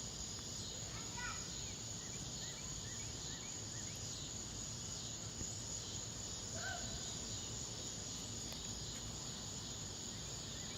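Steady, high-pitched chorus of cicadas and crickets calling, with a few faint short chirps mixed in.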